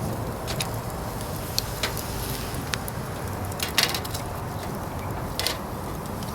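A fire in a fire-pit grill crackling, with irregular sharp pops, the loudest a few close together a little before the middle, over a steady low rumble.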